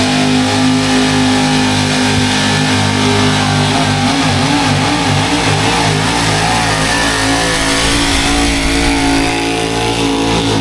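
Gasoline pulling truck's engine running at high revs under load during a pull. Its pitch is steady for the first few seconds, then wavers up and down.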